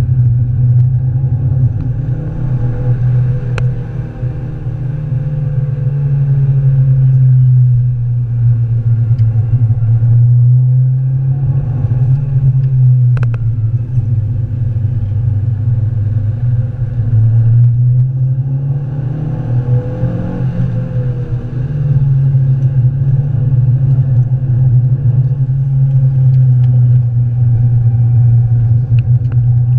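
Renaultsport Clio 182's 2.0-litre four-cylinder engine running hard from inside the cabin while lapping a circuit, its note dropping a few times as the car slows for corners. Two sharp knocks, about four and thirteen seconds in.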